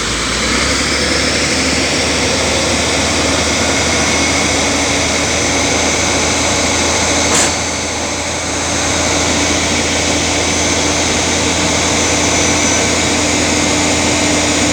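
Diesel engine of heavy equipment running steadily, with a faint high whine over it. There is a single sharp click about halfway through.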